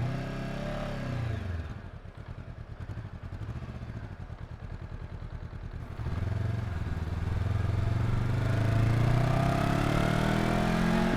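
Honda NX500's 471 cc parallel-twin engine heard through an exhaust-mounted microphone: a brief rise in revs that falls away in the first two seconds, then a quieter stretch, and from about six seconds in the engine pulls harder with a steadily rising pitch as the bike accelerates.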